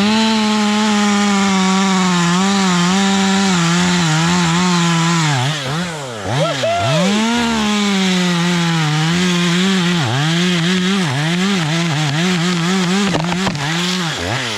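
Two-stroke chainsaw held at high revs while cutting through a limb, its engine note wavering and sagging under load. The throttle drops briefly twice, about six and ten seconds in, and the saw winds down near the end.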